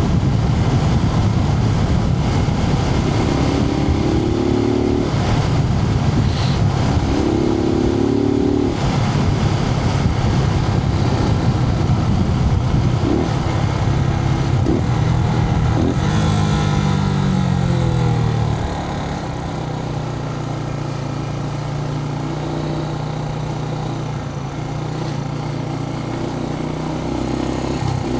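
Suzuki TU250X's air-cooled single-cylinder engine running at road speed with wind noise, heard from a microphone inside the rider's helmet. About two-thirds of the way through, the revs fall away as the bike slows, and the engine runs on more quietly at low revs.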